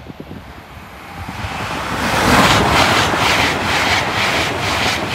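Ten-car LNER Class 800 Azuma high-speed train passing at speed: a rush of wheel and air noise that builds quickly from about a second in, with a regular beat of about three a second as the wheelsets go by.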